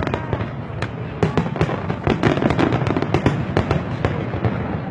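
Aerial fireworks going off rapidly: many sharp bangs, several a second, over a dense crackle of bursting shells.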